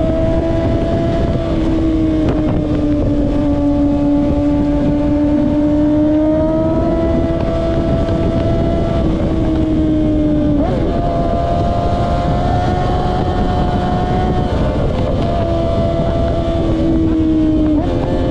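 Kawasaki ZX-6R's inline-four engine running at high revs, its pitch held fairly steady with small rises and dips. The pitch jumps about ten and a half seconds in and shifts again near the end.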